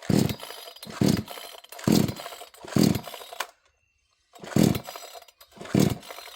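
A 62cc two-stroke chainsaw being pull-started: six yanks of the easy-start recoil cord, four in quick succession, then a pause and two more, each turning the engine over without it catching.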